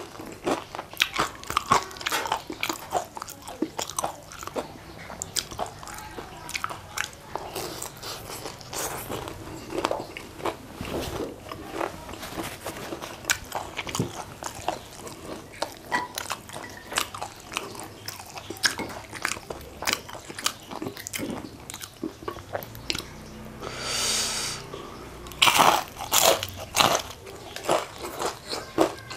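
Close-up crunching and chewing of crispy battered fried food, bitten off piece by piece, with the crunches coming irregularly several times a second and loudest in a cluster near the end. Late on, a brief hiss.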